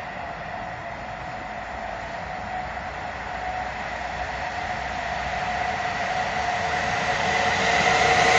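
PKP Intercity EU44 'Husarz' (Siemens Taurus) electric locomotive and its passenger coaches approaching, growing steadily louder as they near, with a steady high whine over the running noise.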